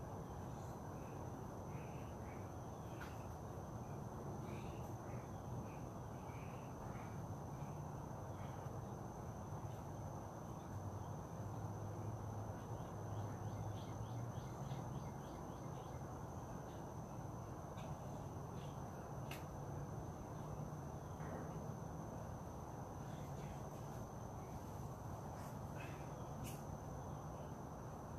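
Natural outdoor ambience: a steady high-pitched insect drone with scattered short bird chirps over a steady low background noise.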